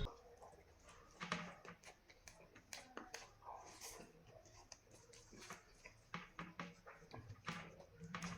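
Quiet eating sounds: chewing and lip-smacking, with irregular small clicks and crackles.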